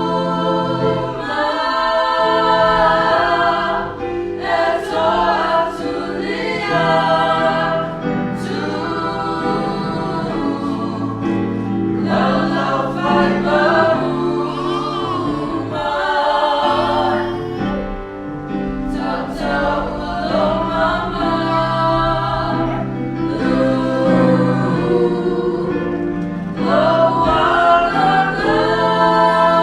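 A small group of voices singing a song together, with sustained low notes underneath.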